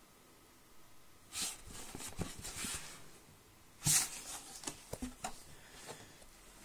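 Handling noise as a football boot is turned and held close to the microphone: a stretch of rustling, a loud sudden rub about four seconds in, then a few small knocks and clicks.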